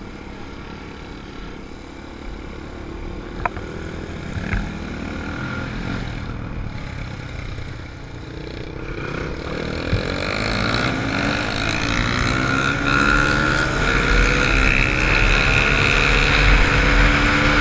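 Dirt bike engine running as the bike is ridden slowly, then rising in pitch and getting louder about halfway through as it speeds up. There are a couple of brief knocks early on.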